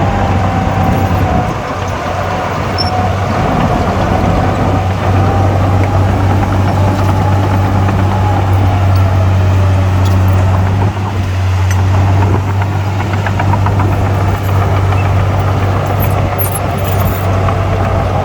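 Heavy-equipment diesel engine running steadily with a deep constant hum, and a fainter whine above it that drifts slowly up and down in pitch.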